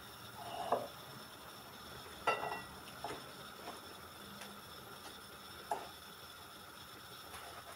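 A few light, scattered clinks and knocks of kitchen dishes and utensils over a faint steady background, one of them a short ringing clink about two seconds in.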